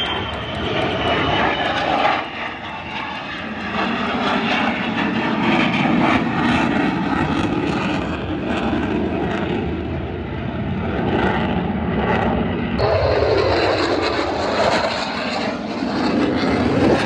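Loud aircraft engine noise from a display flypast, a steady rushing roar that changes abruptly about thirteen seconds in.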